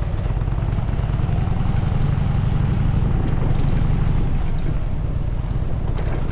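Harley-Davidson Dyna Super Glide's air-cooled V-twin engine running while riding, with wind buffeting the microphone. The engine note grows a little louder partway through, then eases.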